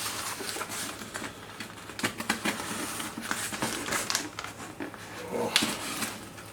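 A cardboard parcel being opened and its packing material handled: irregular crackles, scrapes and rustles of cardboard and packing peanuts.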